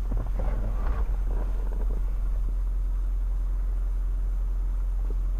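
Mitsubishi Pajero Sport SUV running, a steady low rumble as heard from inside the vehicle, with scattered knocks and rattles over the first couple of seconds as it moves over rough off-road ground.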